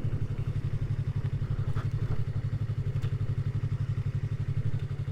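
Yamaha MT-03 motorcycle engine running steadily at low revs, with an even, fast low throb.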